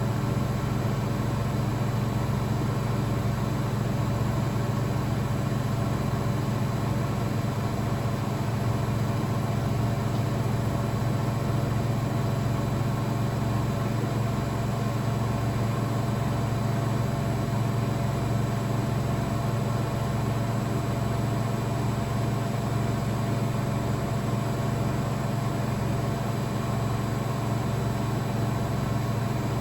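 Blomberg WAF 7442 SL front-loading washing machine running steadily: a constant motor and drum hum with a slow, regular pulse underneath.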